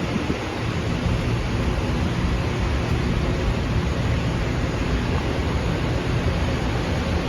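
Metro-North M3A electric train rolling into the station: a steady low rumble and rush of noise.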